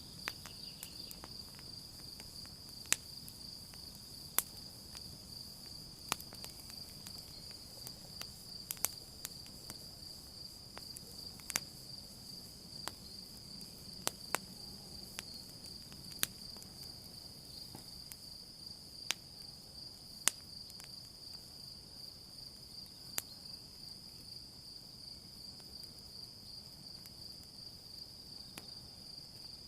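Campfire crackling, with sharp pops every second or two, over a steady high trill of night insects.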